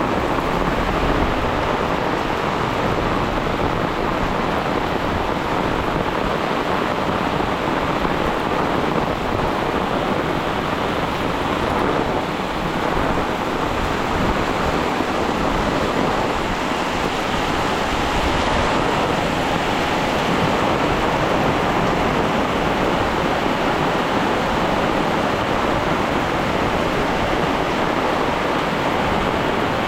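Heavy rain pouring down, a loud, steady rushing hiss that holds throughout.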